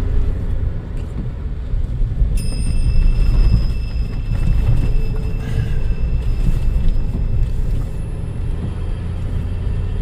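Low, steady rumble of a Suzuki Jimny's engine and tyres heard from inside the cabin on a rough, rain-soaked road. About two seconds in, a thin high whine starts suddenly, holds for about five seconds and then fades out.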